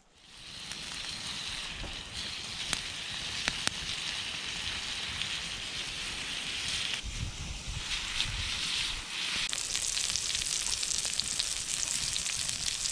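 Chopped vegetables sizzling steadily in a steel frying pan over a campfire, with a few sharp crackles from the fire about three seconds in. The sizzle brightens near the end as the vegetables are stirred with a wooden spatula.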